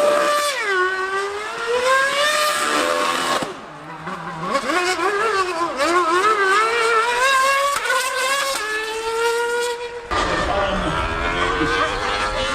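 High-revving racing engine accelerating hard through the gears, its pitch climbing and dropping back at each upshift. A low rumble joins about ten seconds in.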